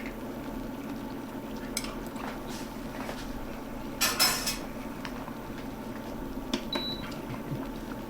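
A spoon clinking and scraping in a pot of simmering vegetable filling, fishing out a piece of celery, with scattered light clicks and a louder clatter about four seconds in.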